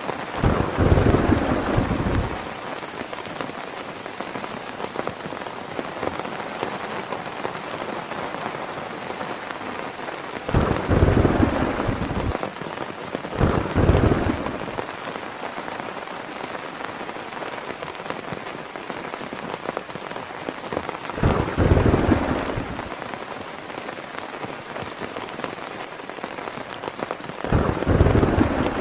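Heavy rain falling steadily, with five rolls of thunder that rumble low for a second or two each, about a second in, then around ten, thirteen, twenty-one and twenty-seven seconds in.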